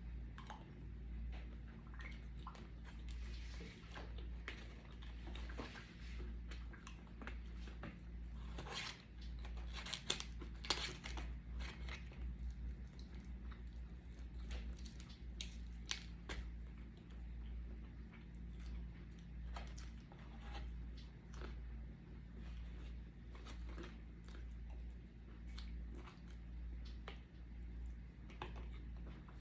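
A person chewing and biting food close to the microphone, with scattered small crunches and mouth clicks, the sharpest about ten seconds in. A steady low hum runs underneath.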